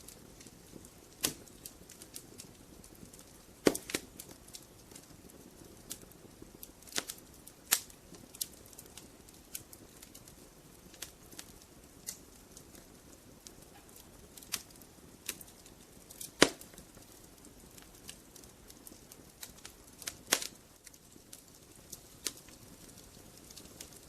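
Logs burning in a fireplace, crackling with irregular sharp pops over a low, steady rush, a few pops much louder than the rest.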